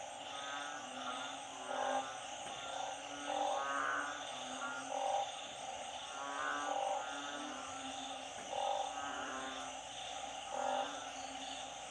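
Frog chorus of narrow-mouthed frogs and small frogs calling in floodwater after a storm. Short pulsed calls come about once a second, overlapping one another over a steady background chorus.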